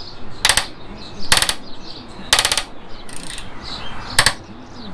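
Socket ratchet clicking in four short runs about a second apart, as the handle is swung back between turns while loosening a rusty bolt.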